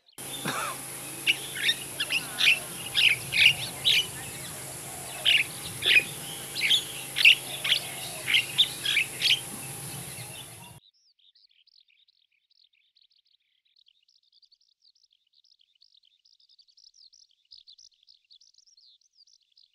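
Javan myna calling: two runs of sharp, repeated chirps over a steady hum, lasting about ten seconds. It then cuts off suddenly, leaving only faint high chirping.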